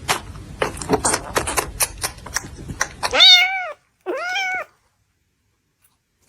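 A run of irregular light clicks and taps for about three seconds, then a kitten meowing twice, each a short call that rises and falls in pitch, about a second apart.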